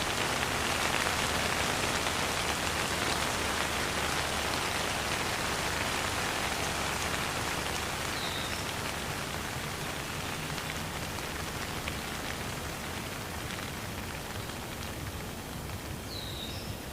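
Steady rain falling, an even hiss that eases slightly toward the end. Two brief faint high chirps come through it, one about halfway and one near the end.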